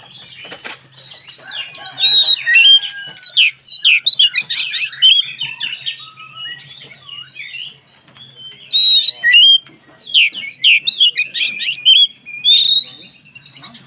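Oriental magpie-robin (kacer) singing: rapid, varied whistled notes in two loud bouts, one starting about two seconds in and another about nine seconds in, with quieter notes in between.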